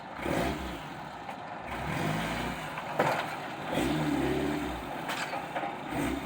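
Off-road vehicle engine revving in repeated bursts as it crawls over rock, with sharp knocks of the chassis or tyres striking rock, the loudest about three seconds in.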